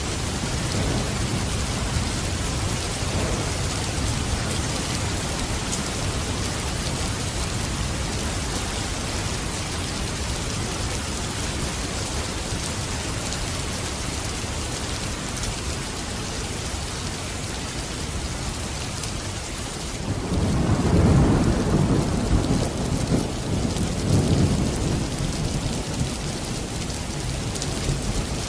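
Steady rain falling, with a low rumble of thunder rolling in about two-thirds of the way through and lasting several seconds.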